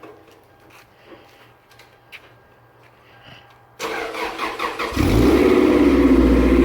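Toyota MR2's four-cylinder engine cold-started after sitting about a week and a half: the starter cranks suddenly about four seconds in, the engine catches after about a second and runs on at a loud, steady idle. Faint clicks come before the cranking.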